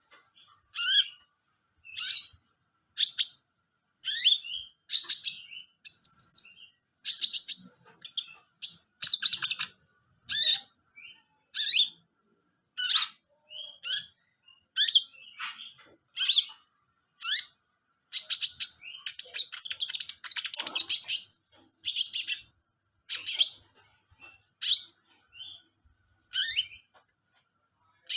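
A songbird chirping repeatedly: short, high chirps about once a second, some coming in quick runs of several notes. No washing-machine hum is heard.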